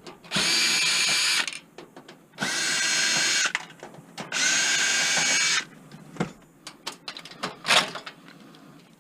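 Power drill running in three short bursts of about a second each, followed by several light clicks and knocks.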